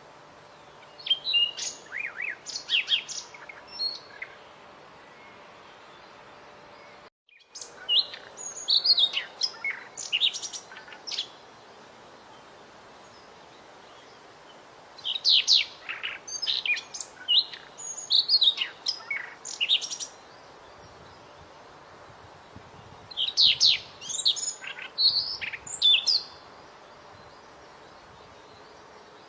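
White-rumped shama (murai batu) singing in bouts of rapid, varied high whistles and chips, four bouts of a few seconds each separated by short pauses, over a steady faint hiss.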